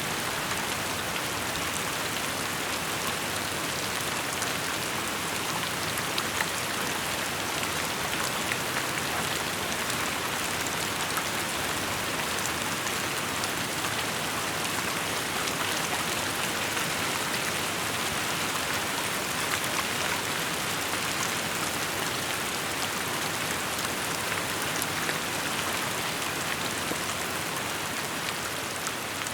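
Steady rainfall, an even hiss with many fine drop ticks.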